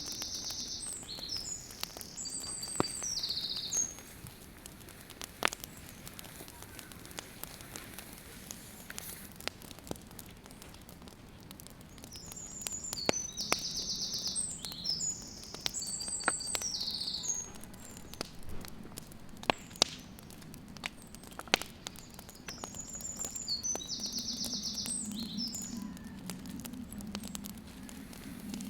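A songbird singing three short, patterned song phrases with trills, about ten seconds apart, over scattered small clicks and crackles. A low steady sound builds near the end.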